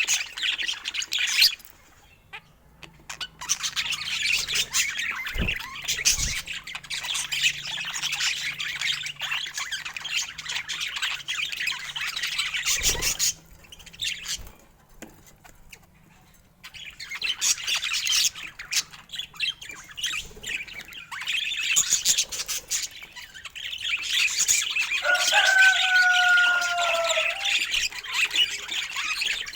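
Budgerigars chattering and warbling in long runs of high, scratchy chirps, broken twice by pauses of about two seconds.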